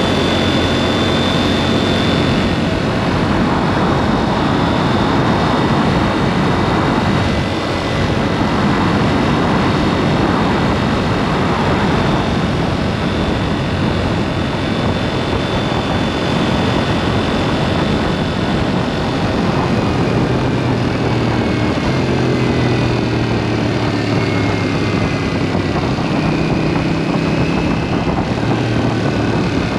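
KTM 790 Duke's parallel-twin engine running under way through an aftermarket SpeedPro Cobra SPX exhaust, with a steady rush of road and wind noise. The engine note changes with the throttle, with a brief dip about seven seconds in and shifting pitch in the last third.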